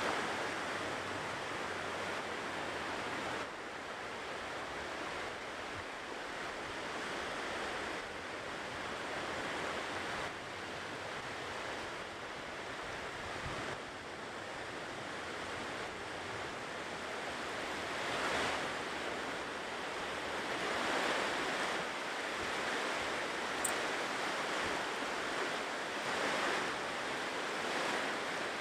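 Ocean surf breaking and washing up a shore in a continuous rush, swelling louder in several washes in the second half.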